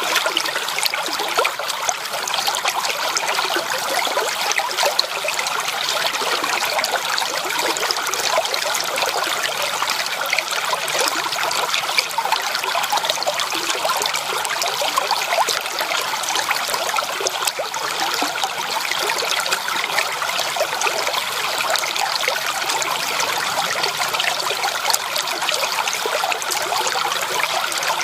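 Shallow creek water trickling and babbling over stones in a steady, bright rush with fine splashes, no deep roar.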